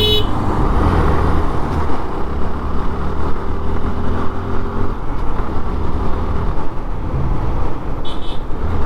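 Suzuki Gixxer FI ABS single-cylinder motorcycle running at road speed, with steady wind and road noise on the helmet-mounted camera. A horn sounding at the start cuts off almost at once, and a short faint horn comes about eight seconds in.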